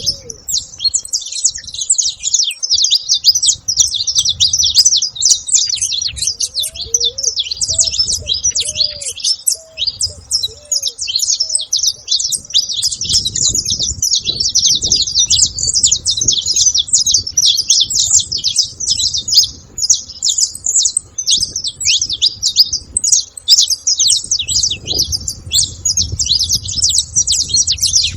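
A flock of saffron finches chirping and calling together in a dense, continuous chatter.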